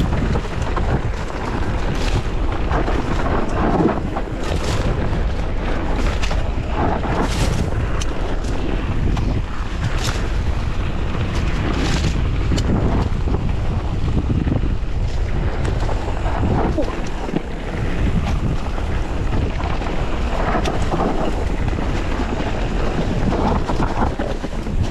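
Heavy wind buffeting an action-camera microphone while moving at speed, a steady loud rumble with gusty bursts throughout.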